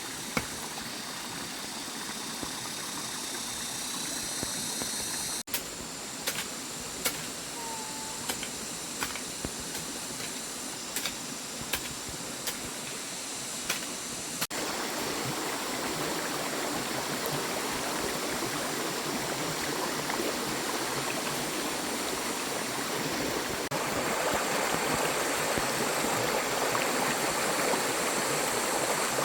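Water flowing steadily, a continuous rushing, with a series of sharp knocks about every second through the first half.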